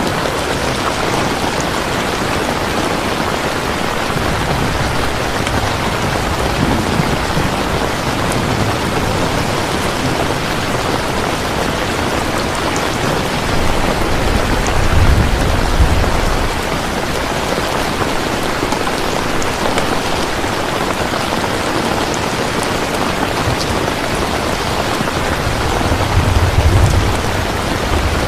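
Steady heavy rain falling, with a low rumble of thunder swelling about halfway through and again near the end.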